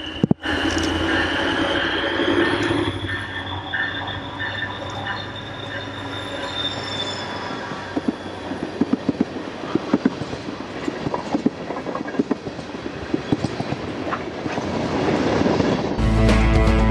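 Morristown & Erie freight train with leased NJ Transit locomotives rolling past, with a long high wheel squeal in the first few seconds. From about halfway through, the tank cars' wheels click and clank over the rail joints.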